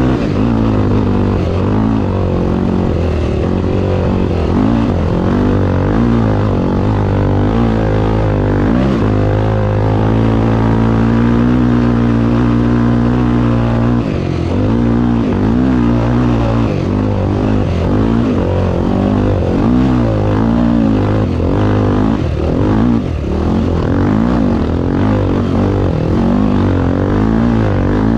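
Racing vehicle engine running loudly under a steady low note, with its pitch repeatedly rising and falling as it revs up and down.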